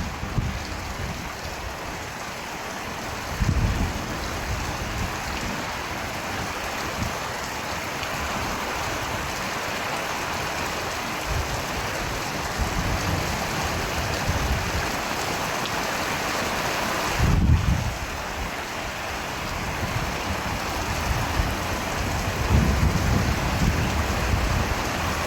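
Steady rain falling, with short low rumbles about three seconds in and again past the middle, and a longer stretch of low rumbling near the end.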